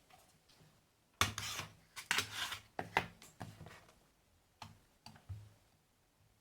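Handling noises from work on a circuit board: sharp clicks and short scraping, rubbing sounds of small hand tools and parts, busiest in the first half, then a few single clicks.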